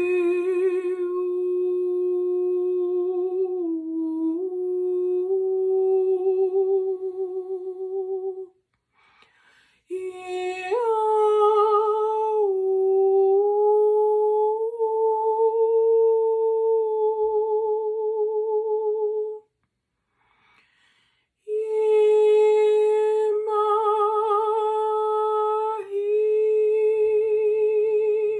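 A woman's voice humming three long held tones with a slight vibrato, a short breath pause between each; the pitch drifts a little within and between the notes.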